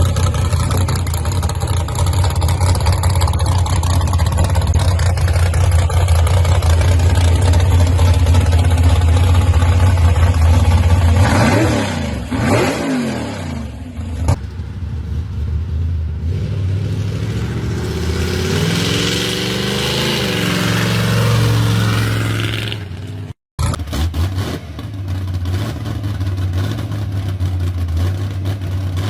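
Gasser hot-rod car engines, loud and running steadily at first, then sweeping in pitch as a car goes by and revving up and down, heard across several cut-together clips.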